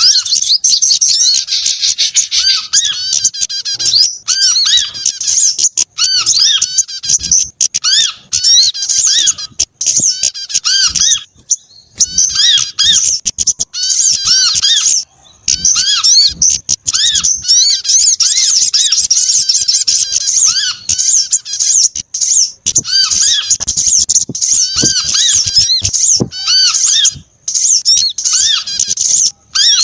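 A bird-lure recording of several small songbirds calling together: a dense, nonstop chatter of rapid high-pitched chirps and twittering notes, layered over repeated short arched calls.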